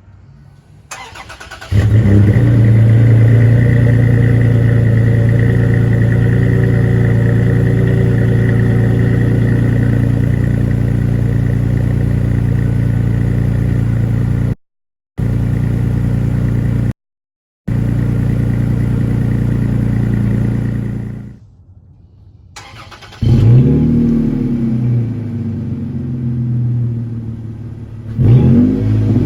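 Toyota Tacoma 3.5-litre V6 exhausting through a Flowmaster 40 Series muffler, starting about two seconds in and then idling steadily. The sound cuts out completely twice for a moment. After a brief lull it is revved, rising and falling in pitch, a few times toward the end.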